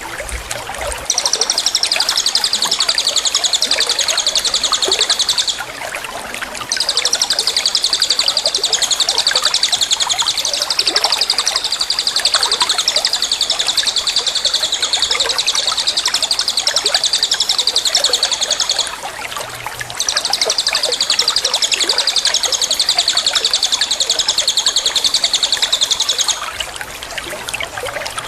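Songbird singing long, high, very fast trills: three of them, about five, twelve and six seconds long, with short breaks between, over a steady rushing background noise.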